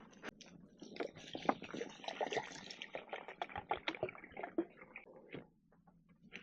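Liquid splashing and trickling in many small irregular splashes and clicks, stopping about five seconds in.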